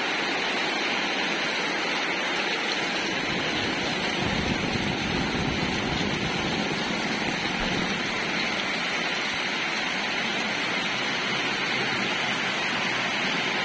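Heavy rain falling steadily onto flooded ground, a constant hiss that neither rises nor falls.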